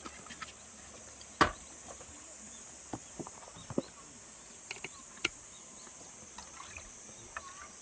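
Steady high-pitched chirring of insects, with scattered sharp cracks and clicks, the loudest about a second and a half in.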